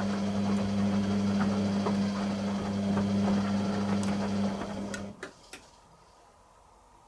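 Beko WTG620M1 washing machine running with a steady low hum and light ticking. It cuts out about five seconds in, followed by two sharp clicks and near silence.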